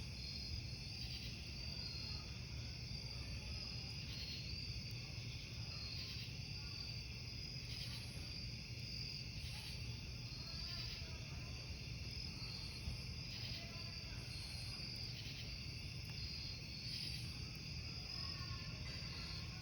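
Crickets chirping in a steady high-pitched chorus, broken by a brief dip every couple of seconds, over the low steady rumble of a burning campfire. One sharp pop about thirteen seconds in.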